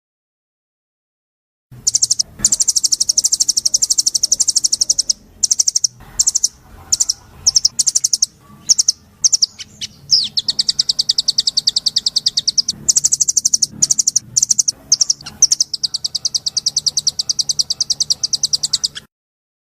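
A songbird singing fast, high, buzzy trills in bursts of varying length with short breaks between them; the trills start after nearly two seconds of silence and cut off abruptly near the end.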